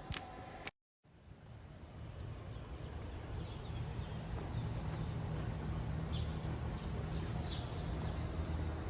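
Birds chirping, a few short falling calls every second or two, over steady outdoor background noise with a low hum.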